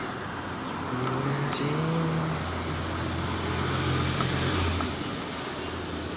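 A motor vehicle's engine running amid road traffic noise, with a sharp click about one and a half seconds in.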